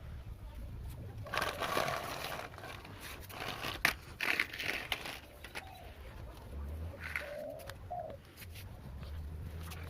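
Pigeon cooing in short low calls a couple of times near the end, with louder bursts of breathy, hissing noise earlier on.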